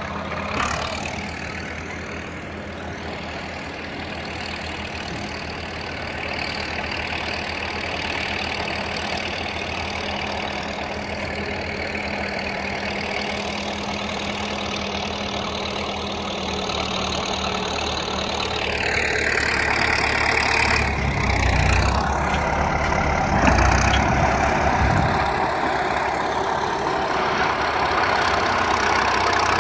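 Tractor engine running steadily, then growing louder with its sound shifting in pitch about two-thirds of the way in, with a sharp thump a few seconds later.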